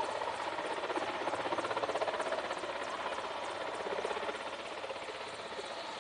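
Helicopter running close by, its rotor making a rapid, even beat over the whine and rush of the engine. It grows a little quieter after about four seconds.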